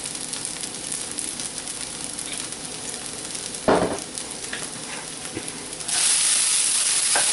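Soaked sago, potato pieces and crushed peanuts sizzling in oil in a pan, with a single sharp knock about three and a half seconds in. The sizzling grows louder about six seconds in.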